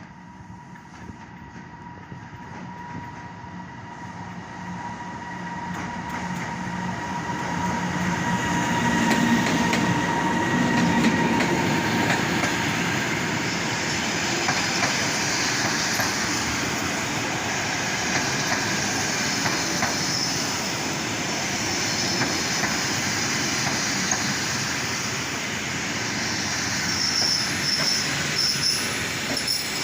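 Passenger train on rails, growing louder over the first several seconds as it draws near, then a steady run of carriages rolling past, with wheel noise and a high wheel squeal near the end.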